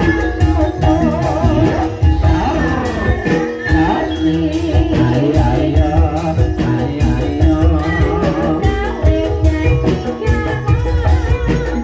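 Live gending ebeg music, the Banyumasan gamelan-style accompaniment to a kuda kepang dance. A singer's ornamented line runs over held instrumental tones and steady drumming.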